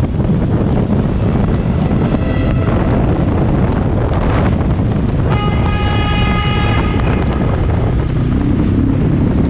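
A vehicle running with a heavy, steady rumble and wind noise. A horn sounds as a held tone for about a second and a half near the middle, with a shorter one earlier.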